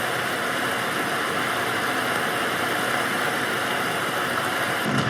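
Bathtub tap running, water rushing steadily into the tub.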